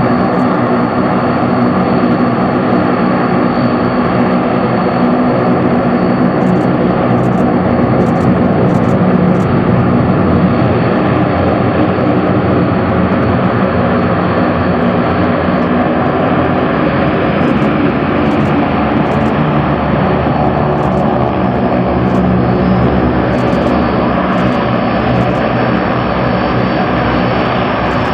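Engines of a large four-engine Antonov cargo aircraft running steadily, a continuous drone with several held tones and a high whine that hardly changes.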